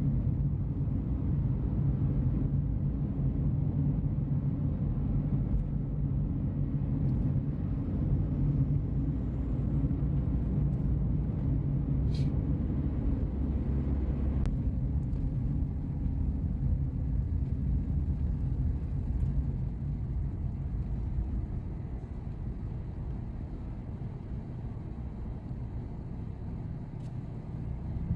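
Steady low engine rumble heard from aboard a moving vehicle, easing slightly in level about two-thirds of the way through.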